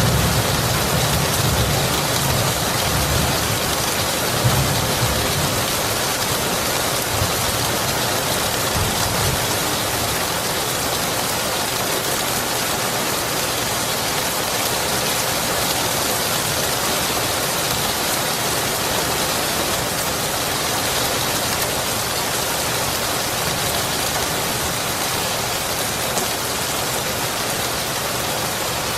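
Steady rain falling, an even hiss. A low thunder rumble at the start dies away over the first several seconds.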